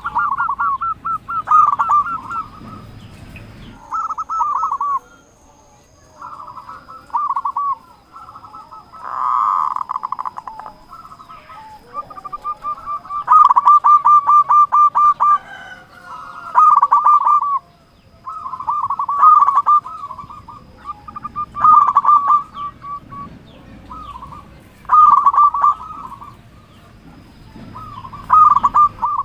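Zebra dove (perkutut) cooing: short bursts of rapid rolling coos repeating every two to three seconds.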